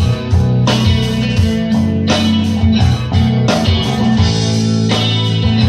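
Live rock band playing an instrumental passage between sung lines: electric guitar chords over bass and drums.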